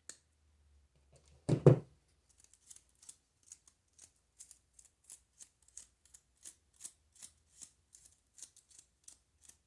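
A single thud about a second and a half in, then scissors snipping over and over in an even run of short, light cuts, about three a second.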